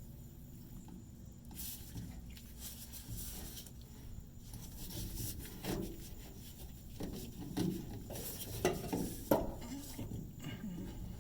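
Hands fitting a hose onto a fuel pump assembly: rustling and handling with scattered light clicks and clinks of small parts, which come more often and more sharply in the second half.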